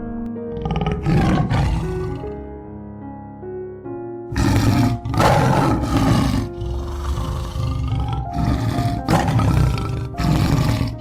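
Background music with a large animal's repeated loud calls laid over it: a pair about a second in, then a run of several more from about four seconds in.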